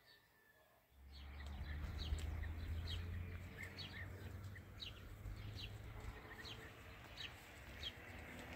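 Small birds chirping over and over, quick short calls, above a steady low rumble; the sound starts suddenly about a second in after near silence.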